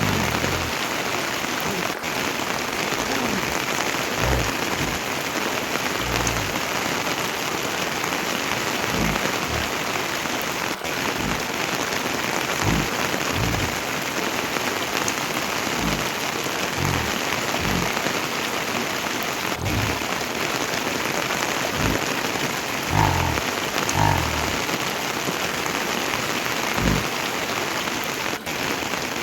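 Heavy rain falling steadily, with scattered short low thuds.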